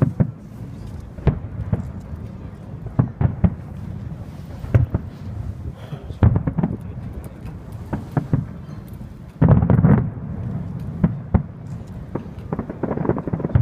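Fireworks display going off: irregular bangs and pops over a low rumble, with a denser, louder volley about two-thirds of the way through and another busy run near the end.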